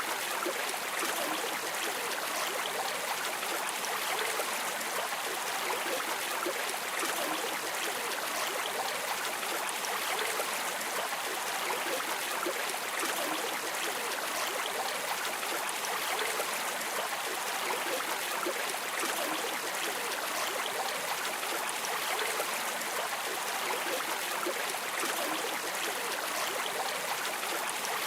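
Stream water flowing, a steady, unbroken rush with no pauses or changes.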